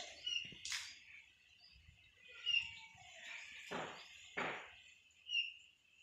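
A bird chirping: a short high chirp repeated every two to three seconds. Two short bursts of noise come close together about four seconds in.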